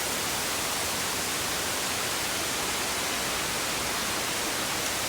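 A steady, even hiss with no changes or breaks, brightest in the upper range.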